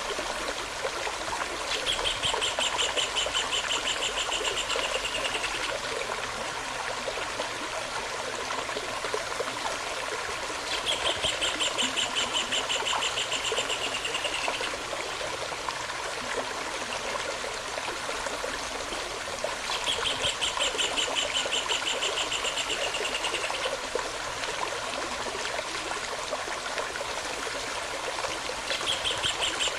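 A small stream running steadily, over which a bird sings a long rapid trill, slightly falling in pitch and lasting about four seconds, repeated three times with a fourth starting near the end.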